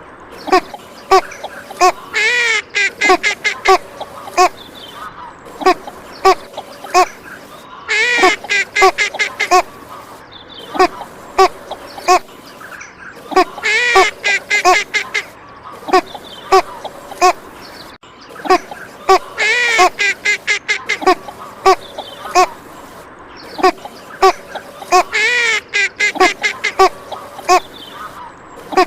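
Female northern shoveler quacking: a burst of rapid quacks comes about every six seconds, with shorter single calls between the bursts.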